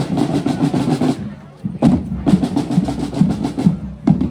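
Drums playing a fast, rapid beat of sharp strikes, with a brief break of about half a second partway through.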